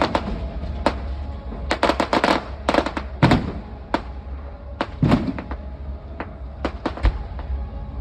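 Fireworks display going off: a rapid run of sharp bangs and crackles, with clusters of quick cracks about two and three seconds in and heavier booms about three and five seconds in.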